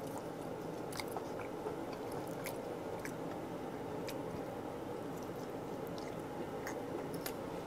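A person biting into and chewing butter-grilled abalone: faint wet mouth sounds with scattered small clicks.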